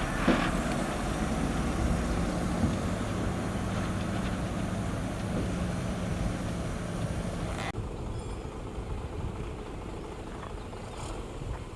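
Diesel engine of heavy road-building machinery running steadily, with a brief hiss near the start. About eight seconds in the sound cuts abruptly to a quieter engine.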